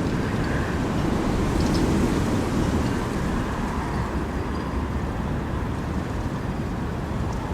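Wind blowing with a steady low rumble that swells slightly about two seconds in.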